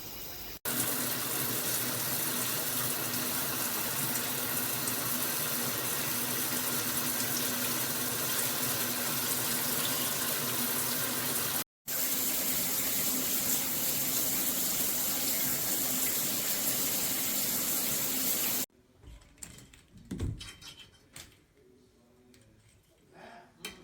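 Moen Engage Magnetix handheld shower head spraying water, a steady hiss that breaks off briefly near the middle and stops suddenly about three quarters of the way through. A few faint knocks follow.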